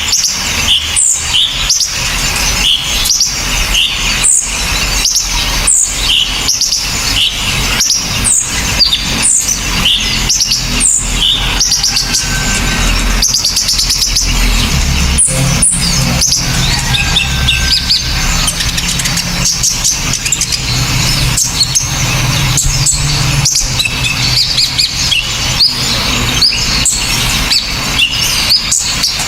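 Songbirds singing loudly, with sharp, harsh, high chirps and quick downward-sweeping notes repeated densely. A low rumble runs underneath for several seconds in the middle.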